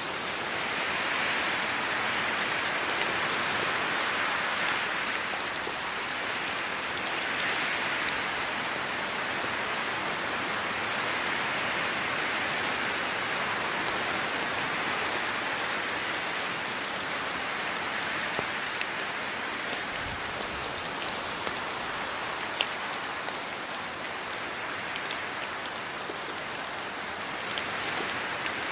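Steady rain falling, with single drops ticking sharply here and there; the hiss slowly swells and eases.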